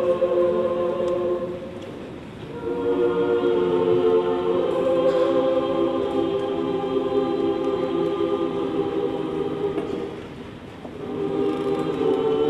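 A choir singing slow, held chords in long phrases, with a short break about two seconds in and another near the end.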